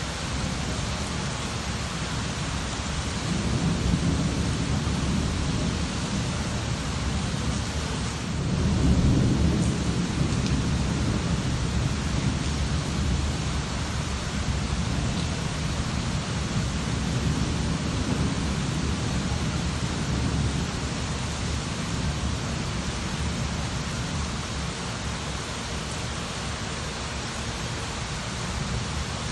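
Steady rain falling, with low rolls of thunder swelling up several times, the loudest about nine seconds in.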